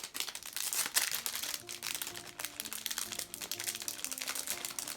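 Rapid, irregular crinkling and rustling of something being handled, over light background music with a simple melody.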